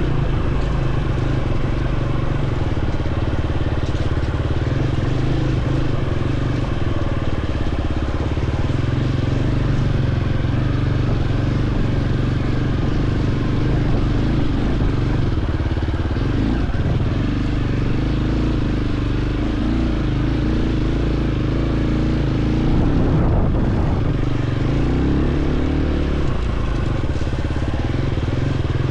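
Dirt bike engine running steadily under way, its pitch shifting a little now and then as the throttle changes.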